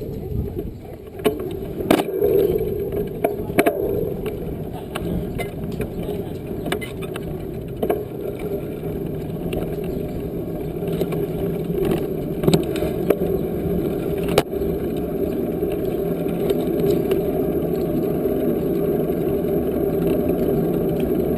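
Steady low rumble of a bicycle being ridden along a trail, with a few sharp clicks or rattles.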